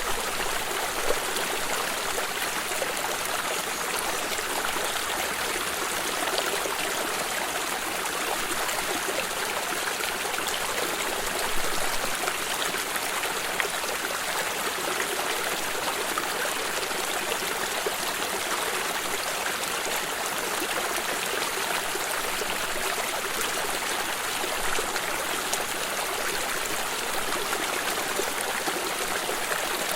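Water stream flowing over stones, a steady rushing and trickling with small splashes now and then.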